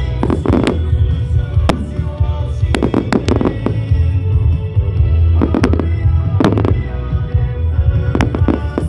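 Fireworks going off in irregular bangs and crackling clusters, some in quick runs, over loud music with a heavy steady bass.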